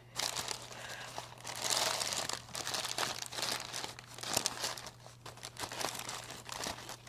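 Sticky glue-and-borax slime being worked and pulled in the hands, a dense irregular crinkling crackle with many small clicks, loudest about two seconds in.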